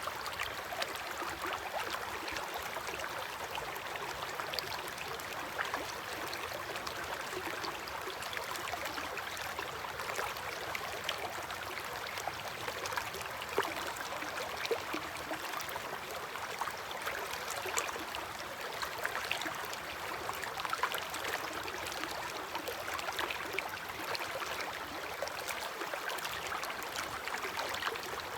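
River water flowing with a steady rush, sprinkled with many small splashes and gurgles.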